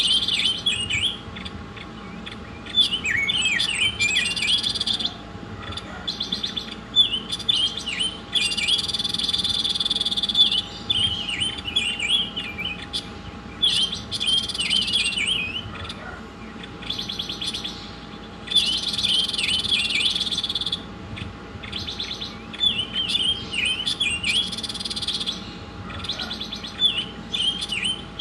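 A small songbird singing in repeated bouts of quick high chirps run into a sustained high trill, each bout lasting a couple of seconds with short pauses between, the kind of song played as a masteran to train caged songbirds.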